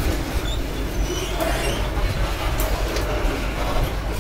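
Freight train's covered hopper cars rolling past close by: a steady rumble of steel wheels on rail, with a couple of clacks and brief faint high squeaks from the wheels.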